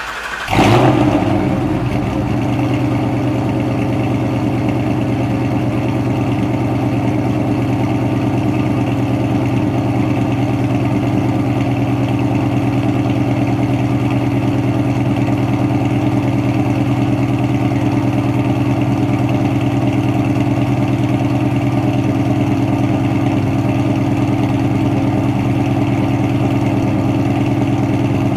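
Ford Mustang GT's 4.6-litre two-valve V8, fitted with stage 2 cams, headers, an X-pipe and SLP LM1 exhaust, cold-started. It catches right at the start and flares up briefly about a second in, then settles into a steady idle.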